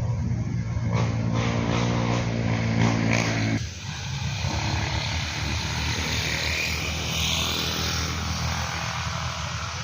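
A motor vehicle's engine hums low and steady, then stops abruptly about three and a half seconds in. A steady rushing noise, like a vehicle going by, carries on after it.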